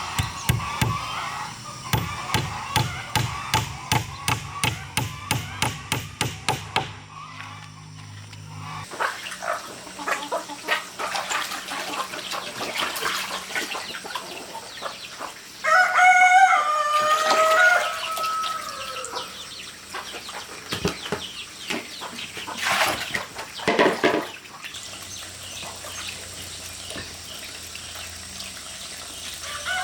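A rooster crows once, one drawn-out call about halfway through. Before it, a quick run of knocks, about three a second, stops about seven seconds in.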